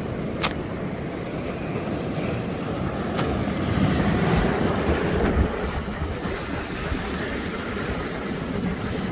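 Sea surf washing on a rocky shore with wind on the microphone, the surge swelling loudest about four to five seconds in. Two short sharp clicks, one just after the start and one about three seconds in.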